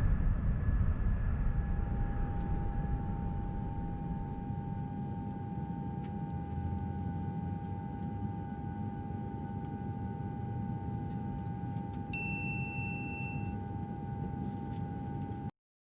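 Airliner cabin ambience: a steady low engine rumble under a steady hum, with a single high cabin chime ding about twelve seconds in. The sound cuts off abruptly near the end.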